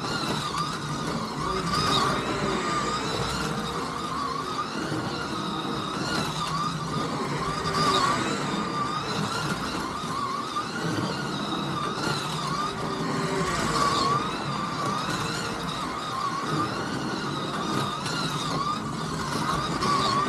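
Scalextric slot cars' small electric motors whining around the track, the pitch rising and falling as they speed up and slow through the corners, the sound swelling about every six seconds.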